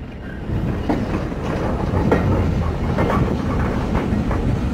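Heritage steam railway carriage rolling along the track as it moves off. The wheels make a steady low rumble with irregular clicking over the rails, growing a little louder in the first second.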